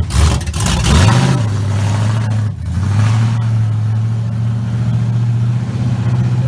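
A Chevrolet Silverado's V8 with a freshly installed cam revs for about a second, then settles into a steady, low idle.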